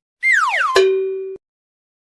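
A short sound effect: a quick falling whistle-like glide, then a sharp ding that rings on one steady tone and cuts off abruptly.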